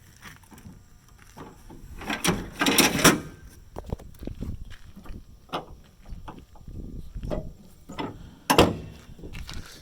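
Clattering knocks from the pickup's fold-out tailgate step being handled, loudest about two to three seconds in, with a sharp knock near the end.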